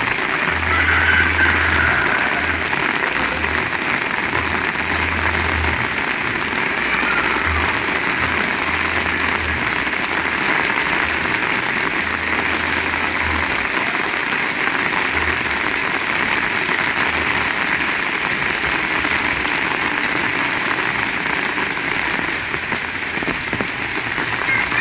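Heavy rain pouring steadily, a dense even hiss of drops, with intermittent low rumbles of wind on the microphone.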